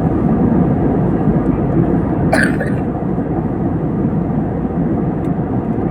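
Steady drone of an airliner cabin in flight: engine and airflow noise. A brief higher-pitched sound cuts through about two and a half seconds in.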